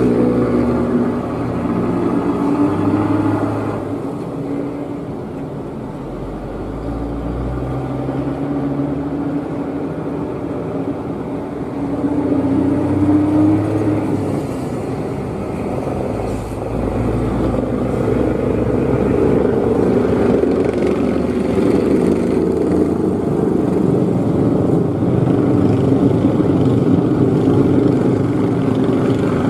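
Old truck's engine running hard under load while climbing, its pitch rising and falling, then settling into a steadier, slightly louder run in the second half.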